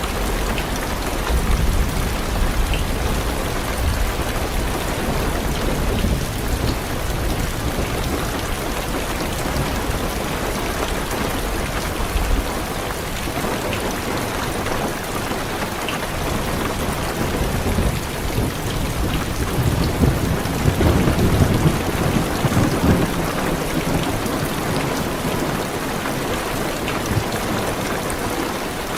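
Heavy rain falling steadily on a car's roof and windows, heard from inside the car. Thunder rumbles low under the rain for the first dozen seconds and swells again about twenty seconds in.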